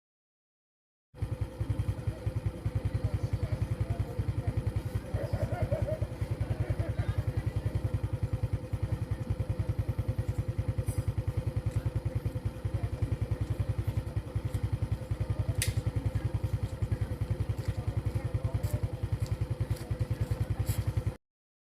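Engine running steadily with a fast, even beat and a steady hum, starting abruptly about a second in and cutting off just before the end.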